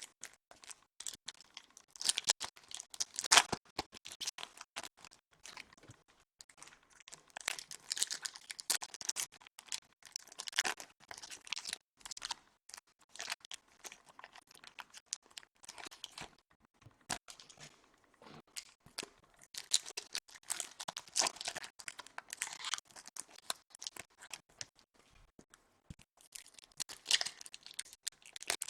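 Plastic and foil wrapping of a box of trading card packs being torn open and crinkled by hand: uneven crackling and tearing with sharp clicks, the loudest about three seconds in and again around eight to eleven and twenty to twenty-three seconds in.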